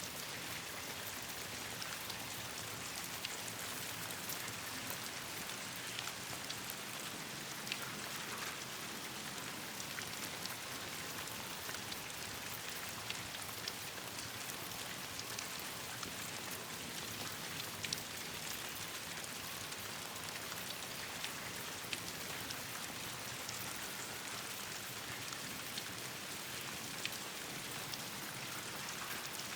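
Steady rain falling on leaves and branches, an even hiss, with scattered sharp crackles every second or two from a campfire burning in the rain.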